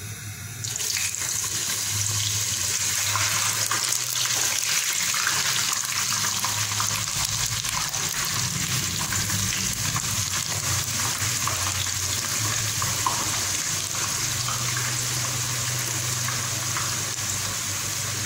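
Eggplant slices frying in hot oil in a deep pot: a loud sizzle that starts suddenly about a second in as the slices go into the oil, then runs on steadily with scattered crackles.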